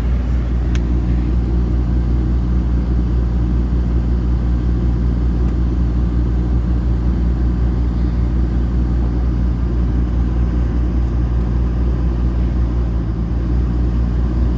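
GMC Sierra pickup's engine idling steadily after a cold start in freezing weather, a low, even running sound.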